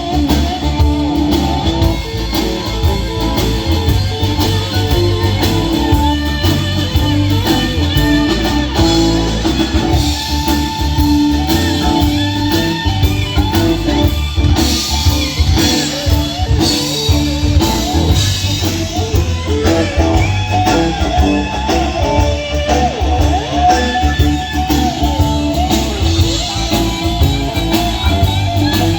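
Live rock band playing: guitar over a steady drum beat.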